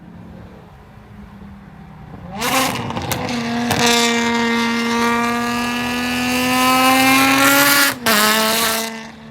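Ferrari 599's 6.0-litre V12, fitted with headers and a race exhaust, goes from a low burble to full-throttle acceleration about two and a half seconds in. Its note climbs steadily for about five seconds, then there is a quick break with a drop in pitch just before eight seconds, like an upshift, and the engine backs off near the end.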